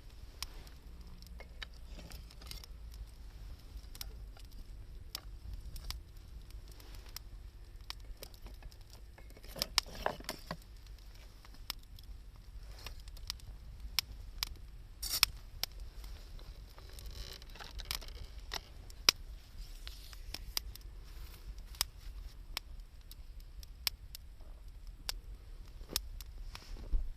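Wood fire crackling, with irregular sharp pops and snaps, a few louder ones around ten and fifteen seconds in.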